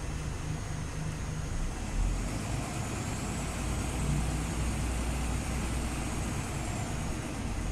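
Scania OmniLink CL94UB city bus running, its low engine rumble growing louder about two seconds in. A faint high whine rises and then falls over the following few seconds.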